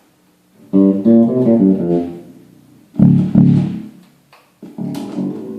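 Homemade fretless electric bass with an EMG pickup and active tone circuit, plucked in three short phrases of notes to show off its bass (low-end) tone control.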